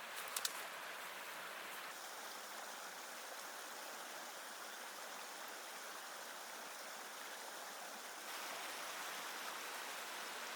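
Steady rushing water noise, with two sharp clicks just after the start and a small rise in level about eight seconds in.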